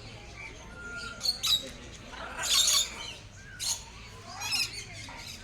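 Captive parrots giving a series of short, harsh squawks, the longest about a second long in the middle.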